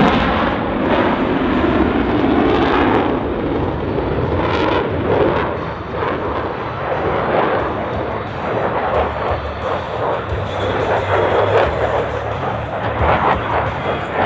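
F-16 Fighting Falcon jet engine running loud overhead with a ragged crackle, rising and falling slightly as the jet passes through its manoeuvres.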